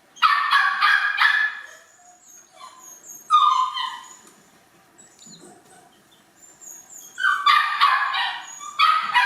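High-pitched animal cries in several bursts, each lasting about a second, with short quiet gaps between them.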